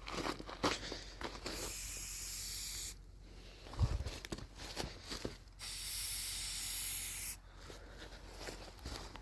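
Aerosol spray-paint can spraying in two steady hissing bursts of about two seconds each, with a low thump and a few light clicks between them.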